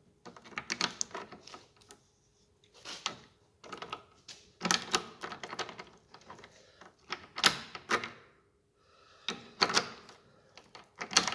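Irregular clusters of sharp metal clicks and knocks as the greased worm shaft, fitted with a new bearing, is pushed and seated into the steering-rack housing.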